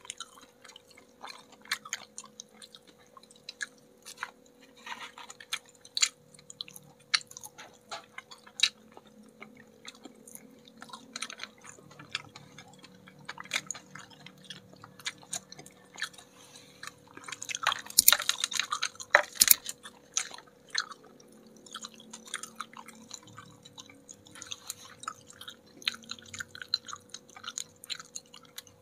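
Close-up chewing and crunching of crispy battered fried chicken wings: wet mouth sounds with scattered sharp crackles of the crust, the loudest cluster of crunches about two-thirds of the way through.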